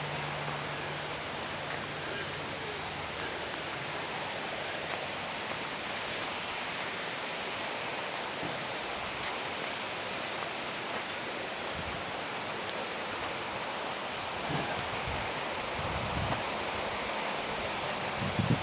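Steady rush of flowing water, an even noise with no rhythm or pitch.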